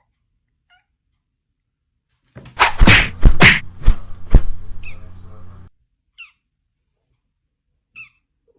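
A run of four or five loud thumps over about three seconds, with a low hum beneath them, followed by a few short, faint high chirps.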